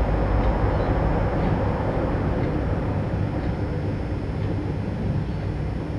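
Steady low rumbling noise with no clear pitch, fading slightly toward the end.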